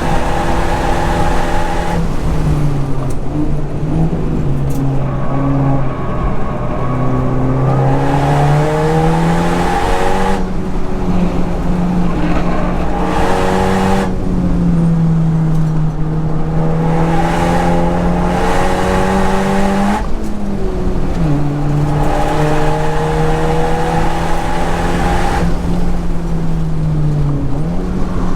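Honda Civic Type R FK8's turbocharged 2.0-litre four-cylinder driven hard on track. The engine pitch climbs slowly for several seconds and then drops, again and again, as it pulls through the gears and comes off the throttle for corners.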